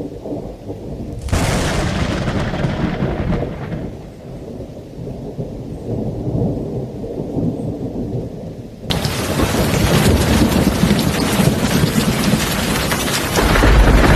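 Thunderstorm: thunder rumbling, with a sharp crack about a second in that fades over the next few seconds. About nine seconds in, heavy rain starts suddenly, and the thunder rumble strengthens near the end.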